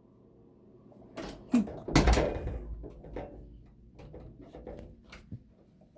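A few knocks and thumps with rustling, the loudest a heavy thud about two seconds in, followed by lighter scattered clicks.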